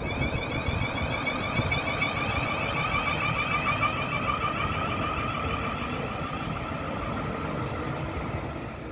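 A train running through the station: a heavy low rumble with a steady high-pitched whine on top, easing slightly near the end.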